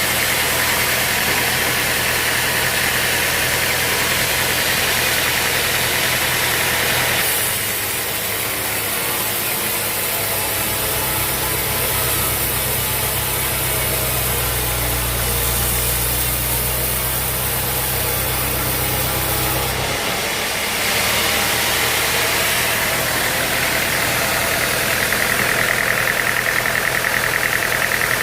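Sawmill engine running steadily; its low hum shifts about seven seconds in and shifts back around twenty seconds.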